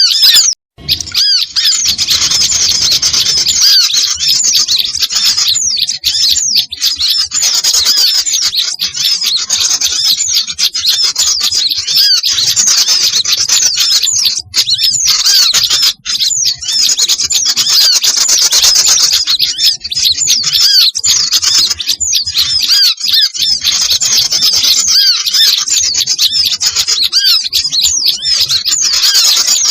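Many small songbirds calling at once in a dense, agitated chatter of rapid high chirps and scolds. It is a small-bird lure recording (suara pikat), a combined 'noisy' mix built around bulbul-type calls, used to draw small birds in.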